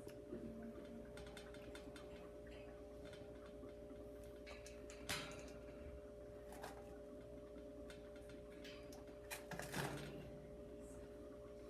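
A parrot's beak nibbling and chewing on a slipper: faint irregular clicks and scrapes, with a louder rasp about five seconds in and another near ten seconds. A steady faint hum runs underneath.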